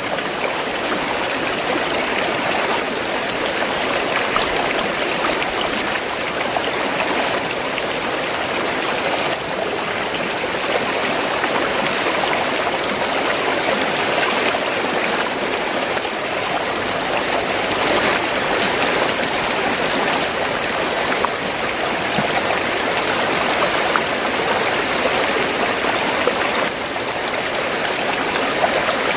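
Fast-flowing stream of water, gurgling steadily.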